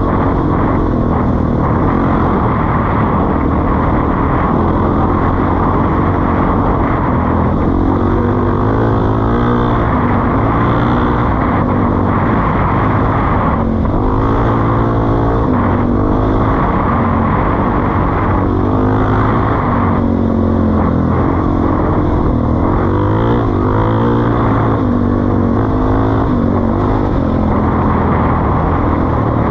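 Suzuki DR-Z400E single-cylinder four-stroke engine running through a Pro Circuit T-4 aftermarket exhaust, loud and steady, its pitch rising and falling several times as the throttle is opened and eased off.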